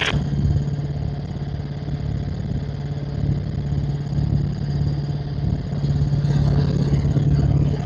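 Helicopter engine and rotor running in flight, a steady low drone with no gunshots.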